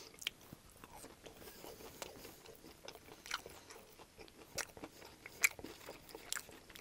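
Close-miked chewing of a McDonald's chicken nugget dipped in hot mustard: soft, irregular crunches and mouth clicks, with one louder crunch about five and a half seconds in.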